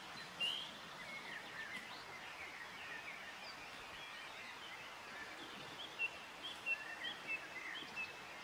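Several small birds singing and calling with short chirps and whistles, including a run of quick, high repeated notes near the end, over a faint steady outdoor hiss.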